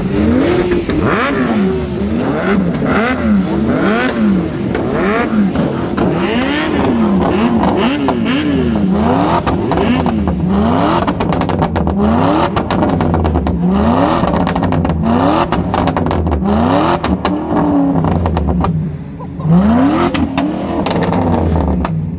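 A car engine revved over and over, its pitch climbing and falling about once a second, with sharp pops and crackles from the exhaust.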